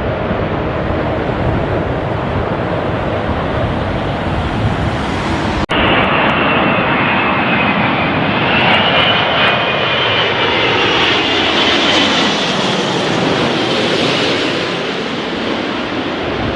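Jet airliner passing low overhead on approach to land: a loud engine rumble with a high whine that falls in pitch as it goes by. The sound breaks off for an instant about six seconds in.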